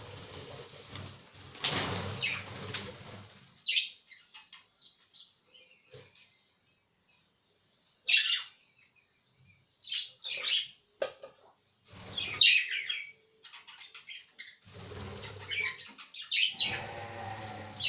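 Budgerigars chirping in short, high calls, mixed with bursts of wing flapping and rustling near the start and the end.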